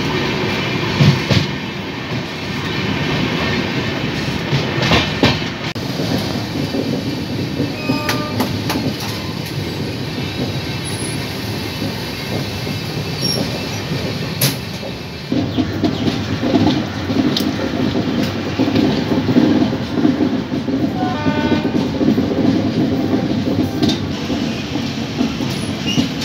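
Passenger train running along the track, heard from inside a coach: a steady rumble and rattle of wheels on the rails with scattered clicks, growing louder about halfway through.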